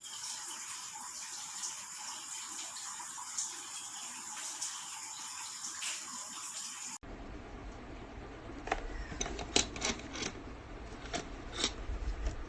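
Steady faint hiss with light ticking, then a run of sharp clicks and taps from handling of a small plastic USB ultrasonic aroma diffuser.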